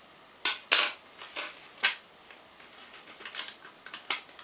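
About six short, sharp clicks and taps, irregularly spaced, of small hard objects being handled and set down on a work surface.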